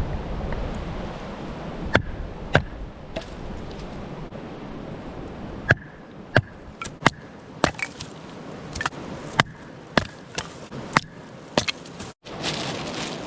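A blade chopping on wood: about a dozen sharp strikes, unevenly spaced, some with a brief metallic ring.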